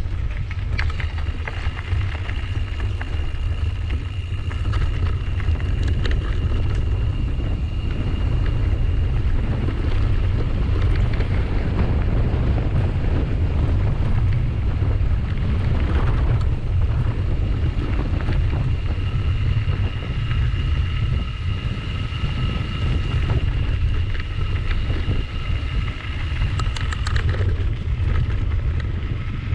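Wind rushing over the microphone of a camera on a moving bicycle, with a steady high whine over it for long stretches.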